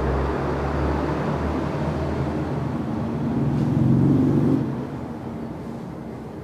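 A motor vehicle engine running and passing by. It grows louder about four seconds in, then fades.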